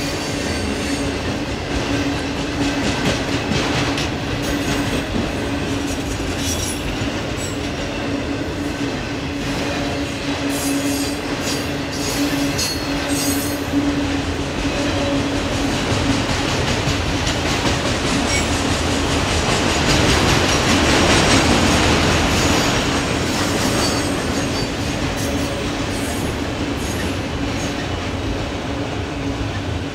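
Autorack freight cars rolling past on steel rails: continuous wheel-on-rail noise with irregular clicks from the wheels and a steady low tone throughout, swelling louder about two-thirds of the way through.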